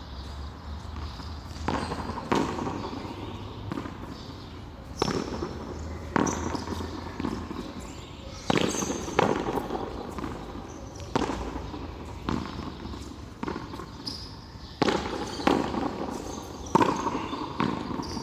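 Frontón handball rally: a ball slapped by bare hands and smacking off the wall and court, with sharp impacts every second or so, often in quick pairs.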